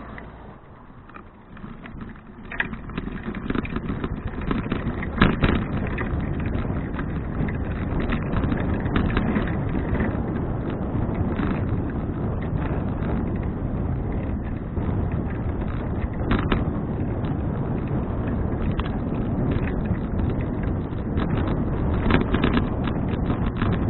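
Wind rushing over an action camera's microphone as a bicycle gathers speed, building up over the first few seconds and then running steadily, with frequent rattling clicks and knocks from the bike.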